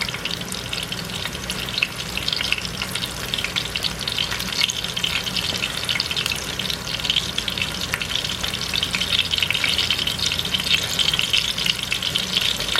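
Breadcrumb-and-Parmesan-coated chicken breasts frying in a pan over medium-high heat, a steady sizzle with dense crackling.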